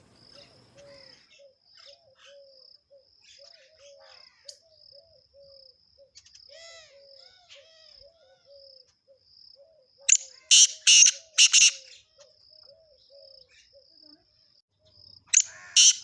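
Rural nature ambience: an insect chirping in a steady, high-pitched pulse, with a low call repeated about twice a second underneath. A bird gives loud bursts of chirps about ten seconds in and again near the end.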